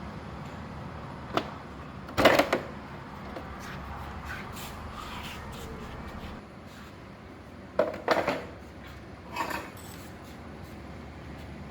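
Sharp knocks and clatters of hard objects being handled: a single knock, then a burst of clatter about two seconds in, another around eight seconds in and a softer one near the end, over a steady low hum.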